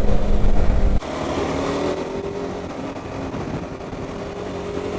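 KTM 390 Adventure's single-cylinder engine running on the move, with heavy wind rumble that stops abruptly about a second in. The engine pitch then rises gently as it pulls.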